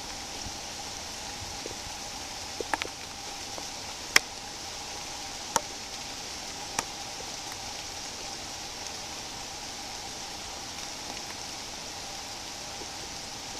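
Steady hiss of light rain falling, with a few sharp ticks of single drops or taps near the start, the loudest about four seconds in.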